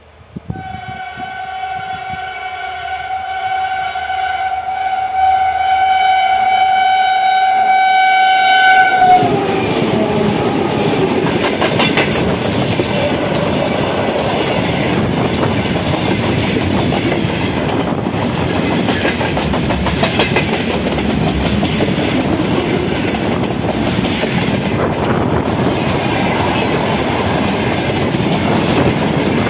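2TE116 diesel locomotive sounding one long, steady horn blast of about eight seconds as it approaches. The horn cuts off as the locomotive passes close by, about nine seconds in. A freight train of open-top gondola wagons then rolls past, its wheels clattering over the rail joints.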